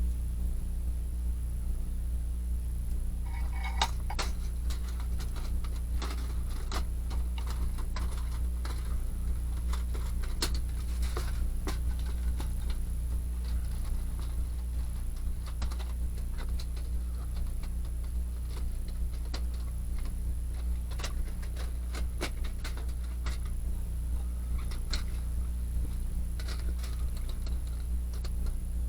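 Sparse light clicks and metallic clinks, starting about three and a half seconds in, over a steady low hum.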